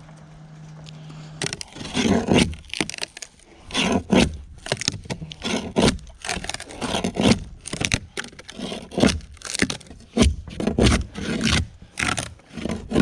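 A faint steady low hum cuts off about a second and a half in, then a hand tool scrapes against the boat's fiberglass hull in irregular, rough strokes, about one or two a second.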